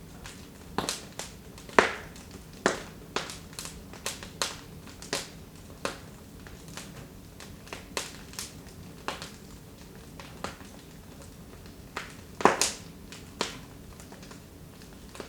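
Wood fire burning in a fireplace, crackling with irregular sharp pops that thin out for a while, then a loud cluster of pops about twelve seconds in.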